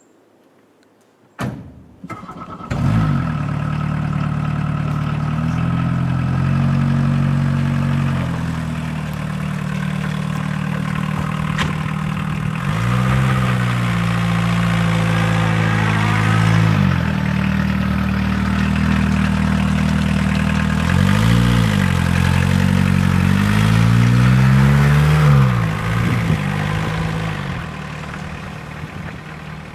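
A 1981 Volkswagen Rabbit pickup's 1.6-litre diesel engine cranked and catching about two seconds in after a click, then idling and revved up and back down several times before settling to a steady idle.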